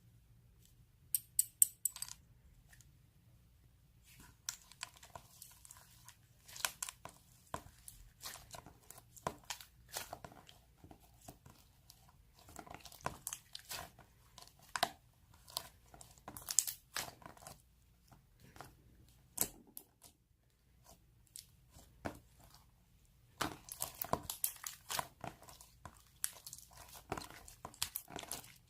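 Irregular crinkling and tearing with sharp clicks, from something being handled close to the microphone. It stops briefly in the middle and grows busier near the end.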